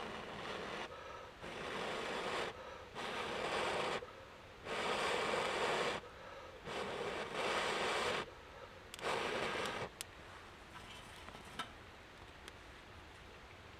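A series of about seven rasping, scraping strokes, each about a second long with short pauses between, stopping about ten seconds in; a few faint ticks follow.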